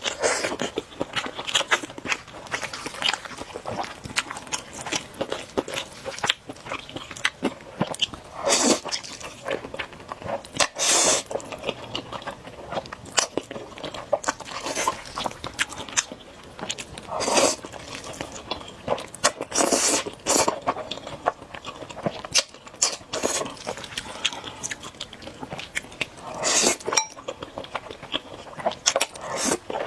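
Close-miked eating of noodles and eggs: steady chewing with wet mouth clicks, and five louder, longer bursts spread across the stretch.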